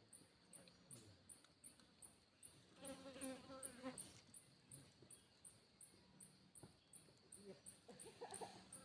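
Faint, evenly repeating high-pitched insect chirping, about three chirps a second, with a short animal call about three seconds in and a few softer calls near the end.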